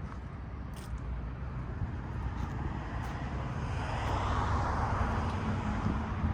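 City street traffic: a steady low rumble, with a passing car's tyre and engine noise swelling about four seconds in and easing off near the end.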